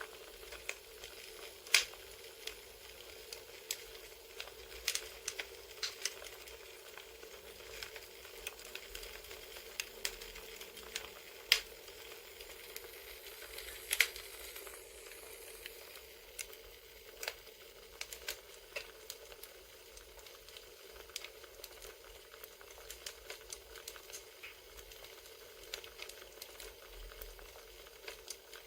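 Crackling wood fire: a steady soft hiss with irregular sharp pops and snaps, a few of them louder, about 2, 11½ and 14 seconds in.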